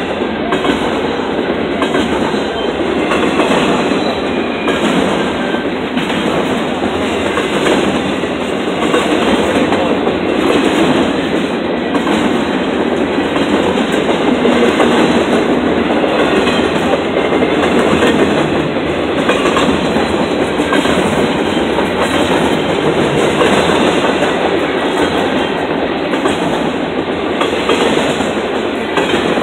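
Empty intermodal well cars of a freight train rolling past: a steady loud rumble and clatter of steel wheels on the rails, pulsing regularly as each set of trucks goes by.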